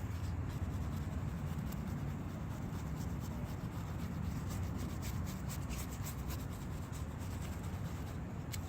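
A brush scrubbing back and forth over solvent-wet plastic bodywork, a steady scratchy rubbing with many quick bristle ticks, loosening softened spray paint.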